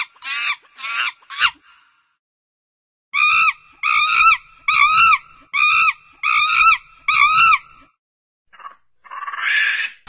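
Monkey calling in a series of high-pitched calls. A quick run of falling calls comes first. After a pause, six even rising-and-falling calls follow at a steady pace, then a short call and a harsher one near the end.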